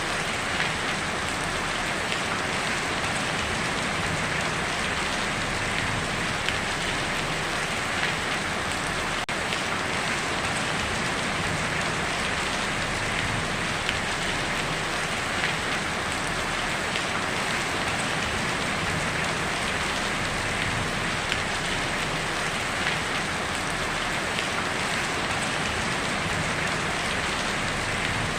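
Heavy rain drumming steadily on a tin roof, a dense even patter with many small drop impacts.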